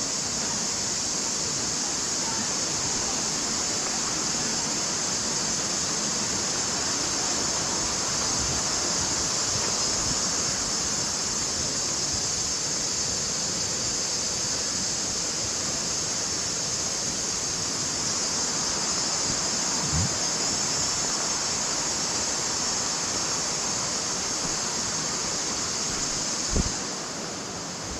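Mountain creek water rushing steadily, an even hiss with no break. A short thump comes about 20 seconds in and another near the end, where the high hiss drops away.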